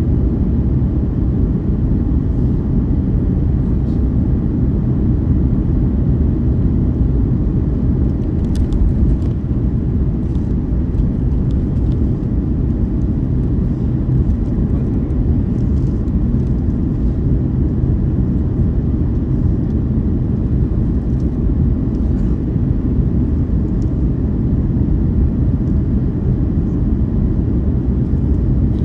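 Steady, loud low rumble of an airliner's engines and airflow heard inside the passenger cabin, with a few faint ticks.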